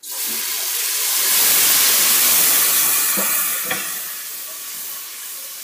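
Ginger-garlic paste dropped into hot oil and browned onions in a pressure cooker: a sudden loud sizzle that swells for a couple of seconds, then slowly dies down. A couple of short knocks come a little past the middle.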